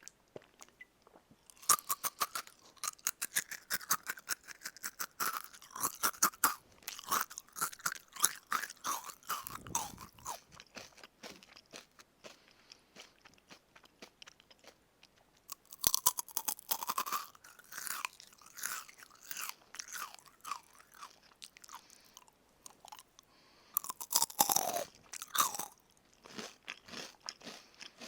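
Close-up crunching and chewing of crisp-coated karaage (Japanese fried chicken). Sharp crackly bites come about two seconds in, around sixteen seconds and around twenty-four seconds, each followed by crunchy chewing that fades off.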